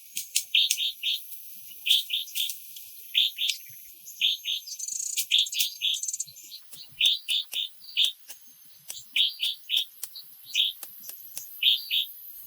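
A bird calling over and over in short chirps, grouped in quick twos and threes, with many sharp ticks and a steady high hiss behind.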